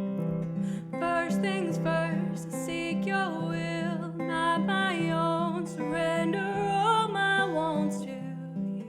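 A worship song on acoustic guitar, with a woman's voice singing a wavering melody over it from about a second in until near the end.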